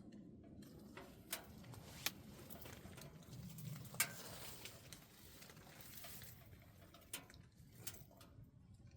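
Wood fire burning in a double-combustion camping wood stove: a faint low rush of flame with a handful of sharp crackles, the loudest about four seconds in.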